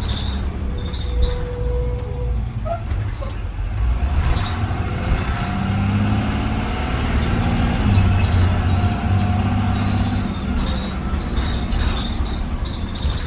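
2020 Blue Bird Vision school bus under way, heard from inside the bus: a steady low engine hum with road noise, the engine growing louder through the middle stretch.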